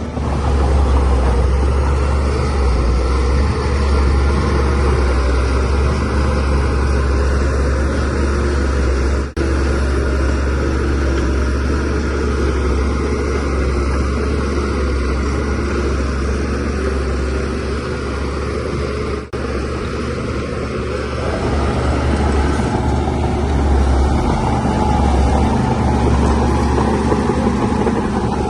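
DH17C3 crawler bulldozer's diesel engine running steadily with a strong low drone. The sound cuts out briefly twice.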